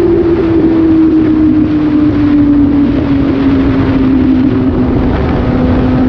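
Suzuki GSX-S750's inline-four engine running loud through an SC-Project exhaust with the dB killer removed, its pitch falling slowly and steadily, with wind rush over the microphone.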